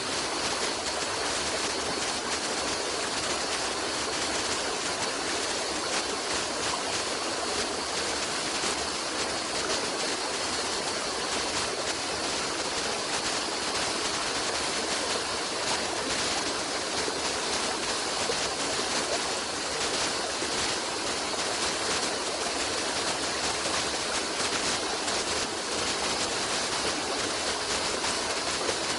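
Stream water running steadily in a continuous, even rush.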